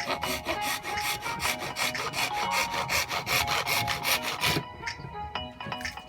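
Hacksaw cutting PVC pipe with quick back-and-forth strokes, about six a second, stopping about four and a half seconds in, over background music.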